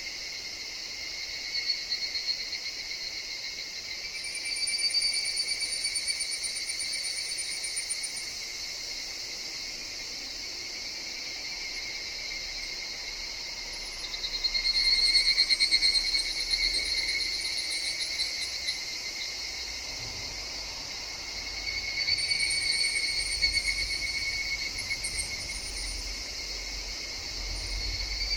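Chorus of higurashi (evening cicadas), their ringing calls swelling up and fading in three waves over a steady insect drone, the loudest wave about halfway through.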